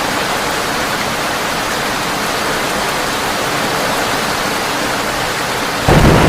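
Heavy rain drumming steadily on a tin roof, an even hiss. Near the end a sudden loud, deep clap of thunder breaks in.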